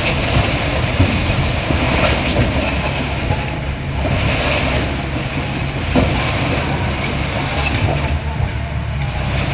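Heavy diesel machinery engine running steadily, with a couple of short knocks.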